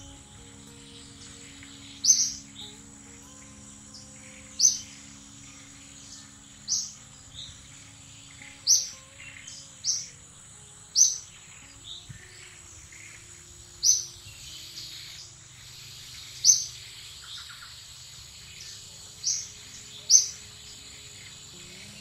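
A bird repeating a short, sharp, high chirp about ten times at uneven intervals of one to three seconds, over a thin steady high-pitched insect drone.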